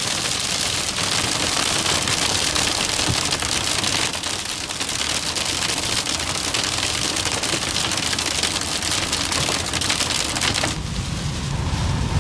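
Heavy rain pelting a car's roof and windshield from inside the cabin, a dense, even patter of countless small hits. It stops abruptly near the end, giving way to a low rumble.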